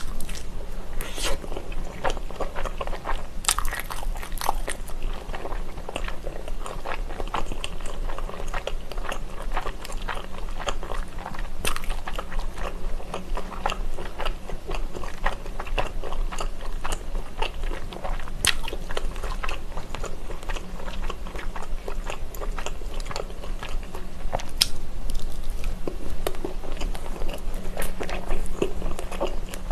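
Close-miked biting and chewing of a ketchup-and-mustard-topped food skewer, with many small irregular clicks and mouth sounds throughout.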